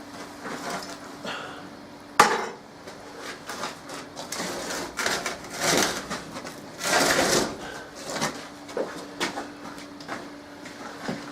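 Heavy metal and wooden objects being shifted and set down on a workshop floor: a sharp clank about two seconds in, then several bouts of scraping and clattering, over a faint steady hum.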